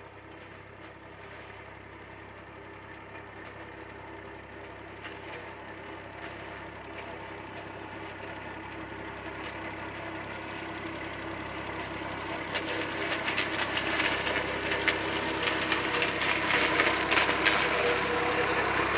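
IMT 539 tractor's diesel engine running under load with the SIP 135 Roto forage harvester working behind it. The sound grows steadily louder, and a rougher rattle and hiss of the chopping harvester builds up over the last third.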